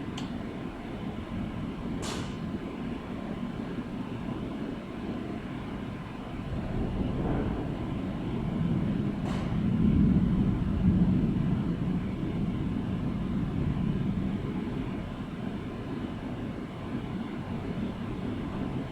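Low rolling rumble of thunder that builds to its loudest about halfway through and then slowly eases, with a couple of brief sharp crackles.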